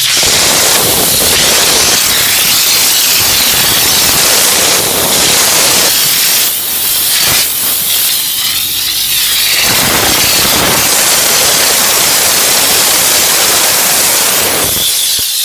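A steam cleaner's jet hissing steadily as it is played over a motorcycle, with small changes in tone as it moves.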